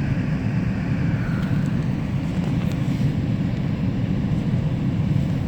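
Steady low rumble of a GO commuter train in motion, heard from on board.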